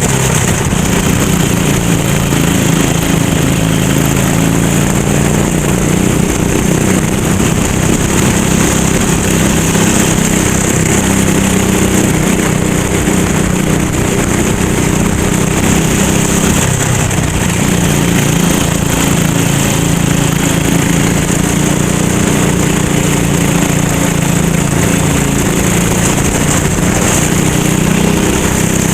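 Racing kart engine running continuously at a fairly steady pitch, with small rises and dips in engine speed and a steady high hiss over it.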